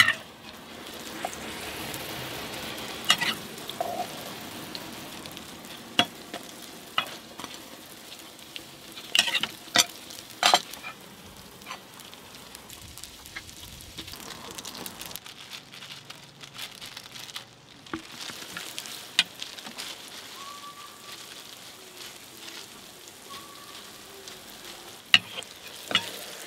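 Hotteok (Korean sweet filled pancakes) sizzling in oil on a flat griddle, a steady frying hiss. Sharp clacks of metal utensils come at irregular moments, a cluster about a third of the way in and again near the end.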